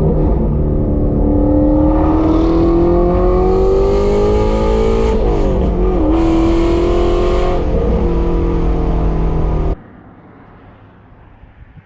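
Ford Mustang Shelby GT350's 5.2-litre flat-plane-crank V8 running loud through Kooks long-tube headers and catted exhaust, accelerating with its pitch rising steadily. About five and a half seconds in, the pitch dips briefly before the engine pulls on. Near the end the engine sound cuts off abruptly, leaving faint wind and road noise.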